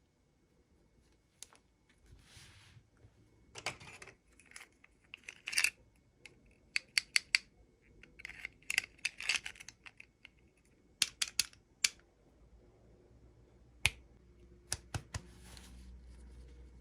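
Small plastic toy pieces and packaging handled by hand: runs of short sharp clicks and taps between brief rustles, with no voice.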